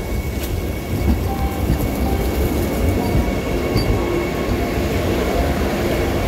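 Vande Bharat Express electric train coaches rolling slowly past at close range. The wheels on the rails make a steady low rumble, with a thin, steady high whine above it.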